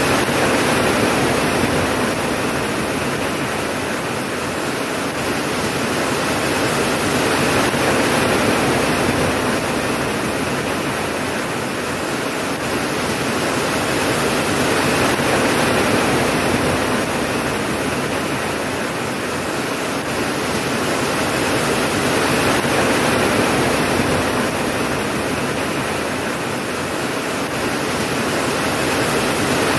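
Steady heavy rain, a dense even hiss that swells and eases slowly about every seven or eight seconds.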